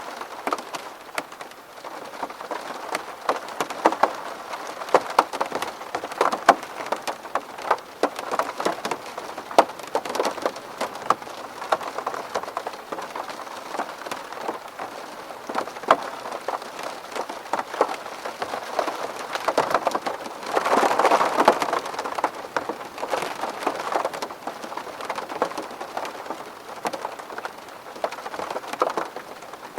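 Rain falling on a window pane: a dense stream of separate drop ticks over a steady hiss, with a heavier burst of rain for a second or two about two-thirds of the way through.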